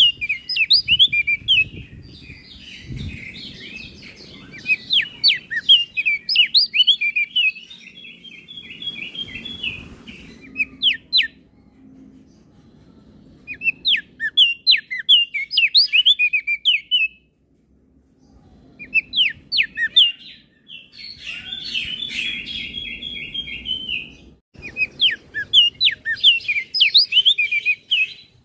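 Crested darkeye (opior jambul) singing: loud phrases of rapid, sharp, downslurred notes mixed with buzzy trills, in bursts of a few seconds separated by short pauses.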